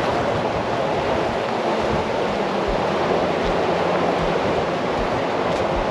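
Steady rushing of wind and surf on a windy seafront, with soft low thumps repeating a little under once a second in the second half.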